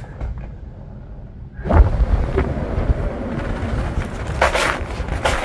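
Blizzard wind buffeting the microphone. A low muffled rumble gives way suddenly, about a second and a half in, to loud wind noise, with stronger hissing gusts near the end.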